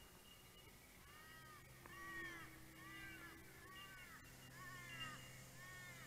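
A bird calling about six times, roughly once a second, each call a short arched note with overtones. A faint steady low hum runs beneath.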